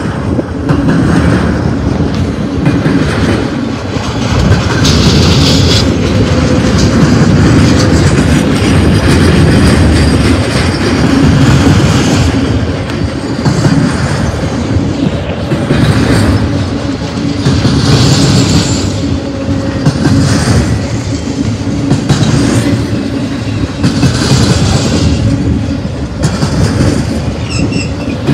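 Intermodal freight train cars carrying truck trailers rolling past close to the rail: a steady heavy rumble of steel wheels on rail with clickety-clack as the wheel sets pass. A brief higher-pitched wheel screech rises out of it a few times.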